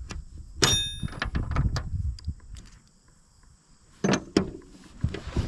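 Bolts and hardware being handled against a steel mower deck: a ringing metal clink, then scattered clicks and knocks, and two sharp knocks near the end.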